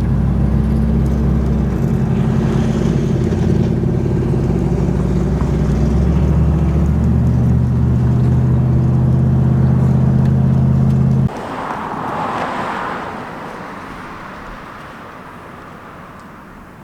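Chevy S10's twin-turbo LS V8 idling steadily and loud, close up. It cuts off abruptly about eleven seconds in, leaving a fainter rushing sound that swells briefly and fades away.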